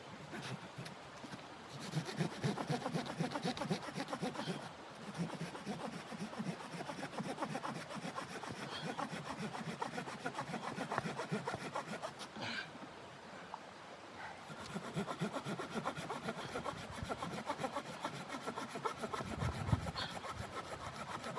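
Saw cutting wood in steady back-and-forth strokes, pausing briefly a little past halfway before sawing on.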